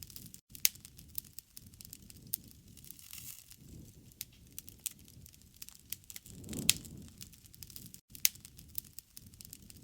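Wood fire crackling, with frequent sharp pops and snaps over a low rush of flame that swells and fades a couple of times.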